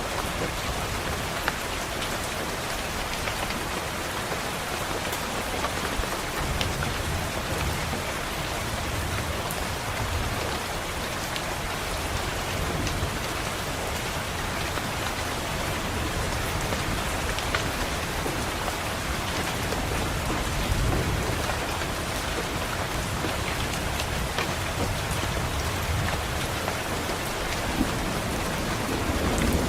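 Steady rain beating on a window, with scattered sharp drop taps. Low rolls of distant thunder swell up a few times, around a quarter of the way in, about two-thirds through and again near the end.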